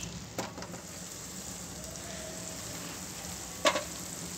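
Beef keema sizzling steadily in a frying pan, an even frying hiss, with a light click about half a second in and a sharp knock near the end.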